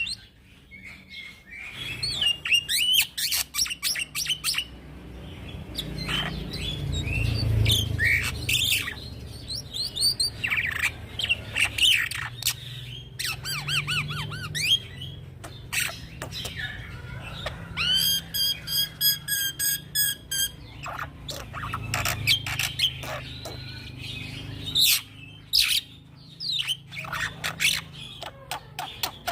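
Young black-winged starling (jalak putih) in full, continuous song: a varied running stream of harsh squawks, sharp clicks and whistled notes, with a fast repeated trill about eighteen seconds in.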